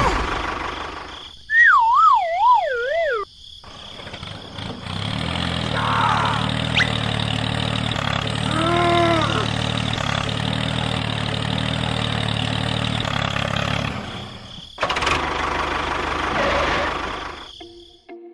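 A small engine running steadily for about ten seconds. Shortly before it, a wavering whistle-like tone wobbles as it falls in pitch.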